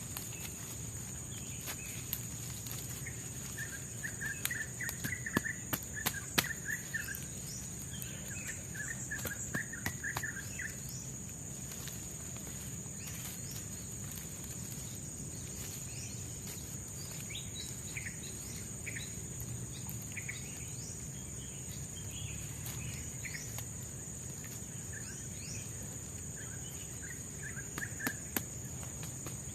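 Forest ambience: a steady high-pitched insect drone, with birds calling in short trilled phrases twice early on and scattered chirps later. Sharp clicks or taps cluster a few seconds in.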